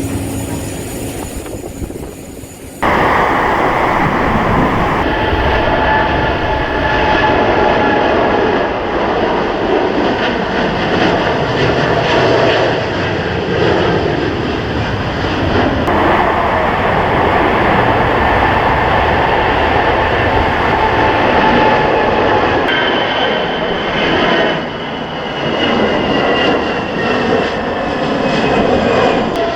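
Jet airliner engines at takeoff power: a dense steady jet noise with whining fan tones that slowly fall in pitch as the plane passes. The sound starts suddenly about three seconds in.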